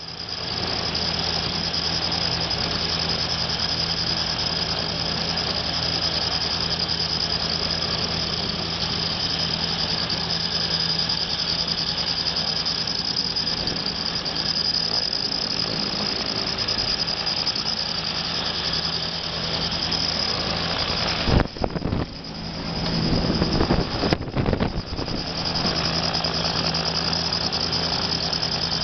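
A motor on test running steadily, with a constant high whine over a low hum. About 21 seconds in there is a sharp knock, then a few seconds of uneven, shifting sound before it settles back to the same steady running.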